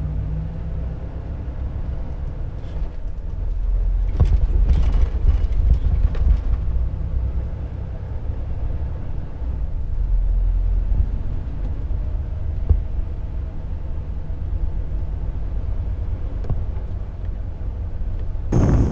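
Steady low rumble of a truck's diesel engine and road noise heard from inside the cab, with a few clicks or rattles about four to six seconds in. Just before the end it cuts abruptly to a louder rushing noise.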